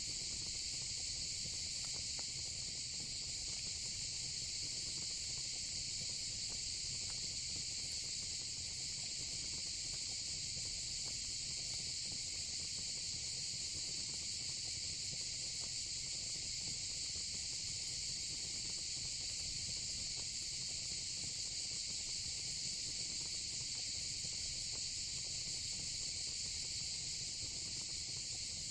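Crickets chirping in a steady, unbroken chorus over the low rumble of fire-pit flames, with a few faint crackles.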